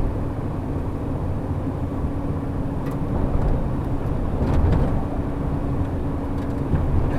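Shuttle bus driving: a steady low engine and road rumble with a held hum, and a few light rattles about three and four and a half seconds in.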